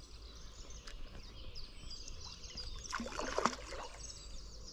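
Birds singing and chirping over quiet riverside ambience, with a brief louder noise about three seconds in.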